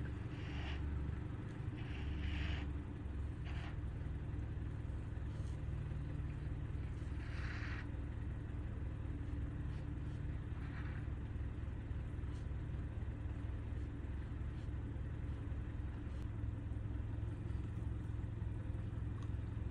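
A vehicle engine idling steadily, a low even hum. A handful of brief scraping rustles come in the first half.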